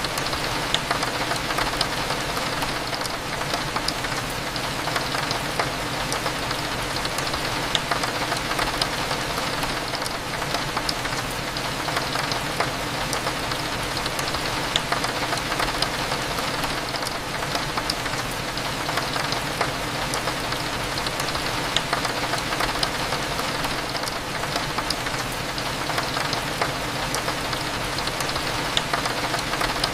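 Steady rain, with many small drops ticking sharply on window glass, over a low steady hum of cafe background.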